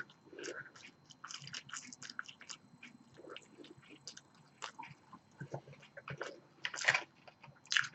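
A person chewing french fries close to the microphone: quiet, irregular mouth smacks and clicks.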